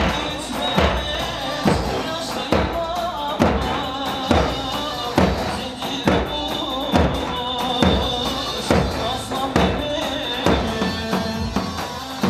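Live Turkish halay dance music played instrumentally on keyboard, with a melody line over a steady, heavy drum beat of a little under one strike a second.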